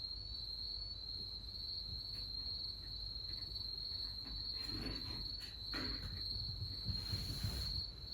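Crickets trilling steadily on one high pitch. A few brief rustles and scrapes come in the second half, the longest near the end.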